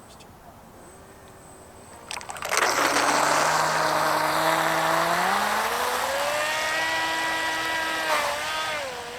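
Brushless electric motor of an RC boat opened up to full throttle about two and a half seconds in: a loud churning water wash with a motor whine that climbs in pitch and then holds. The boat fails to get up on plane, which the driver puts down to the propeller cavitating.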